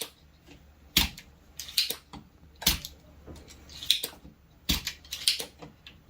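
A hand desoldering pump (solder sucker) is cocked and fired over and over, giving sharp snaps about every two seconds with lighter clicks in between, as it pulls solder off the joints of a reactor on an inverter AC circuit board.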